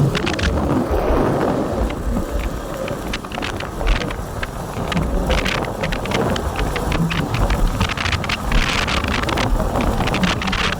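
Wind rumbling on the microphone of a Yamaha Jupiter Z1 motorcycle riding in the rain. Many sharp taps run through it.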